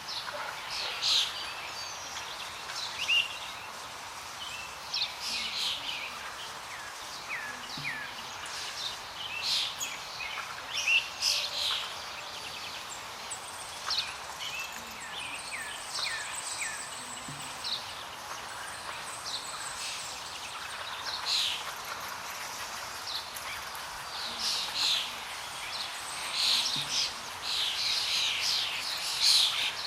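Several birds chirping and calling in short, quick notes throughout, busiest near the end, over a steady background hiss.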